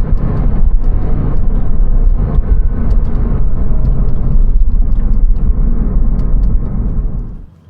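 2001 Porsche 911 Carrera 4's flat-six engine running with heavy road and wind rumble as the car is driven, the sound cutting off abruptly near the end.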